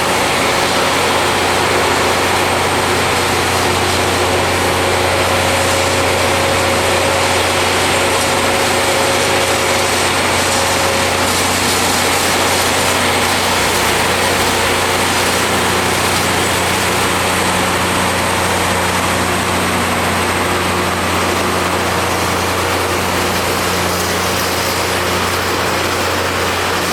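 Rail grinding machine running steadily: a loud, even engine drone with a dense hiss over it that holds level throughout, with no pass-by.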